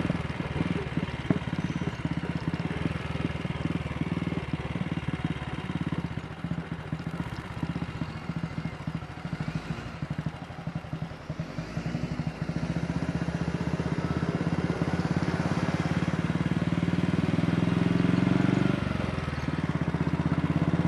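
AJS Model 8 single-cylinder motorcycle engine running on the road. It is quieter around the middle, then grows louder over several seconds as the bike picks up, with a brief dip near the end.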